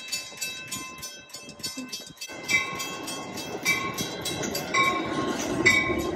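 Metra bilevel commuter train pulling into the station: its rumble builds from about two seconds in as the cars roll past, with a bell dinging about once a second.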